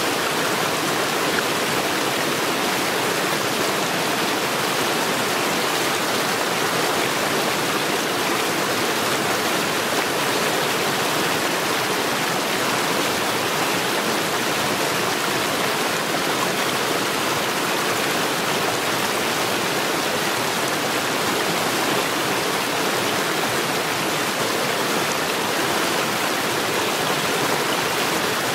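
Mountain stream water rushing steadily over stones, a constant, even sound.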